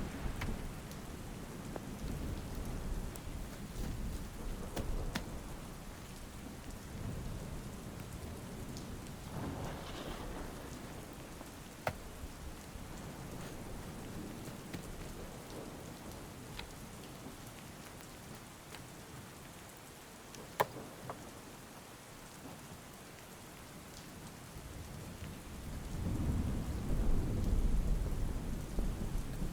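Steady rain falling, with thunder rumbling: deep rolls swell at the start, again about ten seconds in, and loudest near the end. A couple of sharp ticks stand out in the middle.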